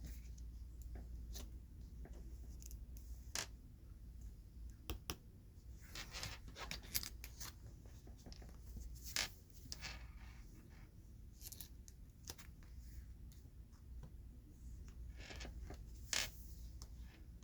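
Large Pokémon cards being handled: irregular rustling and scraping with light taps and clicks, in clusters with quieter gaps.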